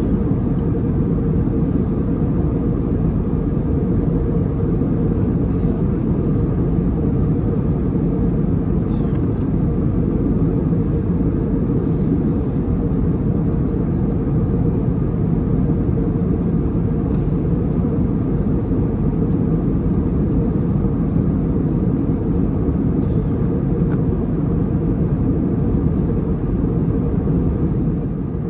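Steady cabin noise of an Airbus A321neo in cruise: an even, deep rumble of engines and airflow.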